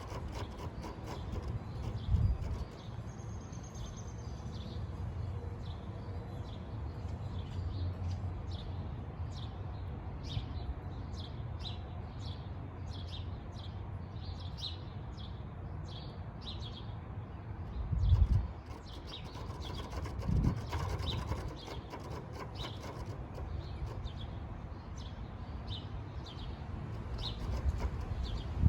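Small birds chirping over and over in short, high notes, over a steady low rumble. A few low thumps break in, the loudest about two-thirds of the way through.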